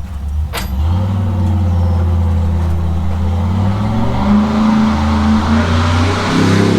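A motor vehicle engine starts up about a second in and then runs steadily and loudly, with a deep even hum, preceded by a single click.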